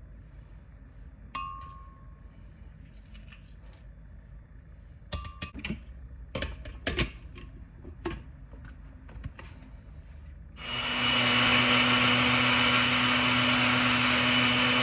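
A clink and a few light knocks, then about ten seconds in a countertop blender switches on and runs steadily at full speed, blending avocado margaritas.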